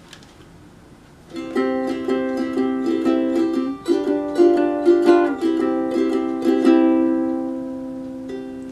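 Ukulele strummed through a short run of chords starting about a second in, then a last chord left to ring out and fade.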